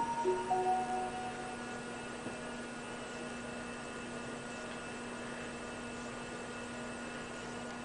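Steady electrical hum with a few fainter steady higher tones above it. In the first second, three short electronic notes at different pitches sound one after another.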